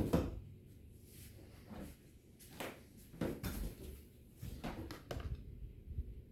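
Spare laptop batteries being rummaged through, picked up and set down: irregular hard plastic knocks and clatters, the loudest right at the start.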